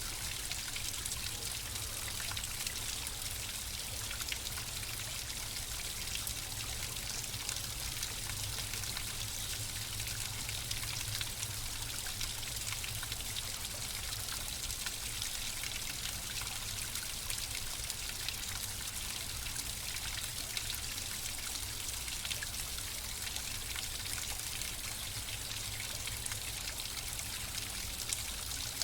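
Flowing water running steadily, a close trickling and splashing with fine droplet ticks over a low rumble.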